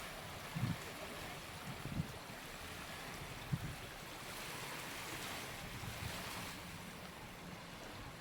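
Small waves washing onto a sandy beach in a steady hiss, with wind buffeting the microphone in a few short low bumps during the first few seconds.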